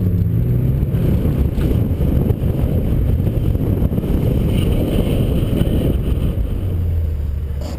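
BMW 328i engine running at low speed as the car rolls and slows, heavily buffeted by wind noise on the microphone, with a steadier low engine hum near the end.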